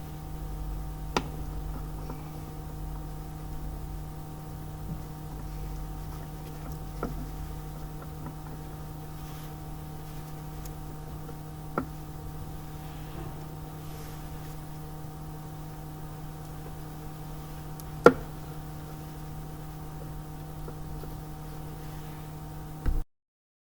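A steady hum with a few sharp knocks spread apart, the loudest about eighteen seconds in. The sound cuts off abruptly just before the end.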